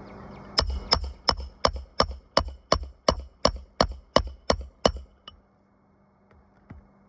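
Hand hammering on a roof: about thirteen sharp, evenly spaced strikes at about three a second, then they stop.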